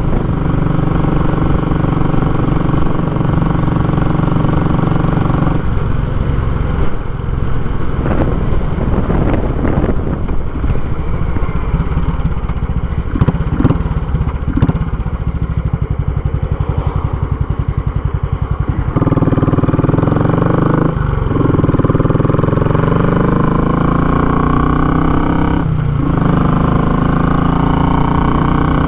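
Royal Enfield Classic 500's single-cylinder engine breathing through a short, raw muffler while riding. It holds steady at first, then slows to a loping beat in which the separate firing pulses can be heard. From about two-thirds of the way in it pulls away with rising pitch, with two short gear-change dips.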